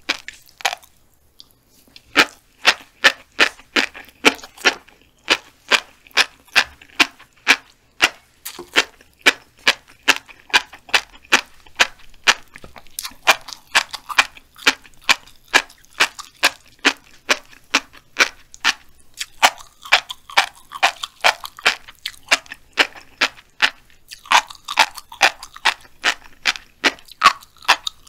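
Close-miked chewing of a mouthful of black flying fish roe mixed with wasabi flying fish roe. The small eggs pop in a rapid run of crisp clicks, about three a second, starting about two seconds in.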